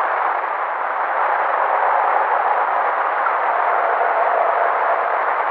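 Hissy field recording of a distant night-time howl: a faint, drawn-out low tone under heavy, steady hiss. It is an unidentified animal call that the uploader puts forward as a possible Sasquatch vocalization.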